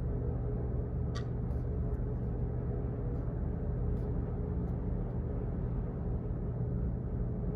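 Office background noise: a steady low hum with a few faint, scattered clicks, the clearest about a second in.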